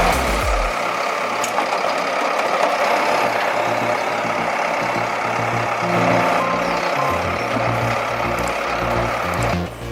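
A heavy truck's engine runs steadily along with machinery noise, under background music with a pulsing bass. Two short beeps sound about two-thirds of the way through.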